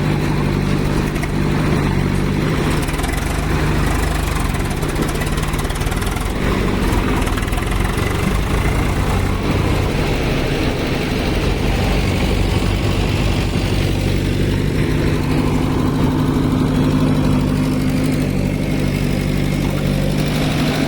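Heavy diesel engine running steadily at a constant speed with a low, even drone.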